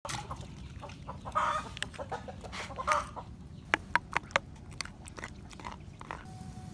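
Chickens clucking, two short calls in the first half, followed by several sharp clicks or taps near the middle.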